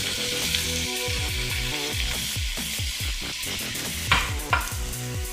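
Spinach and tomatoes sizzling in olive oil in a skillet, a steady frying hiss, with two short sharper sounds about four seconds in. Electronic background music with deep falling bass sweeps plays underneath.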